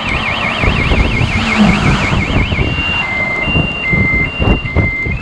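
Car alarm siren going off, a fast warbling tone that switches about halfway through to a slow two-note high–low alternation, over the low rumble of the car on the road. The alarm has set itself off, which the driver says it shouldn't do.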